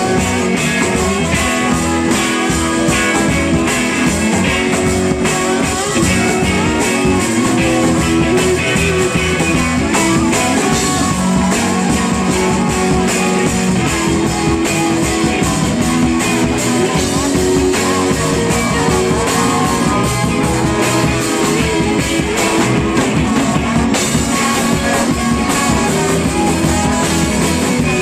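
Live rock band playing an instrumental stretch with electric guitar over drums and bass, loud and continuous, recorded on a small camcorder microphone.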